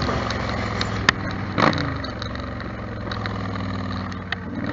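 Yamaha Star Stryker's V-twin engine running steadily while riding at road speed, with wind noise over the microphone. A short sharp click comes about a second in.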